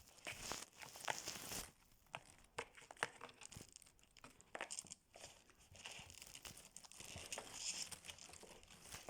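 Gift wrapping rustling and crinkling in irregular bursts, with small taps and clicks, as a cat plays among the presents.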